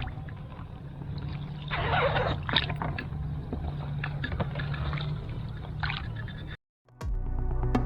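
A boat on water: a low, steady rumble with water gurgling and trickling, and a louder rush of water about two seconds in. The sound cuts off suddenly near the end.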